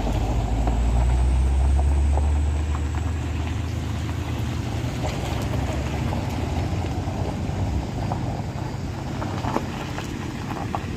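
Heavy truck's diesel engine running under load: a deep, steady rumble, loudest in the first few seconds and easing slightly after.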